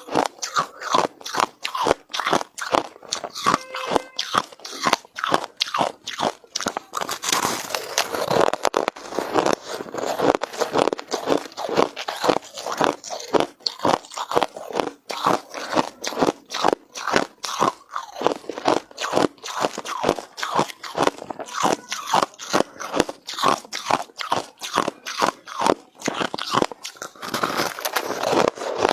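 A person biting and chewing hard ice close to the microphone: dense, rapid crunching and cracking of ice between the teeth, several crunches a second.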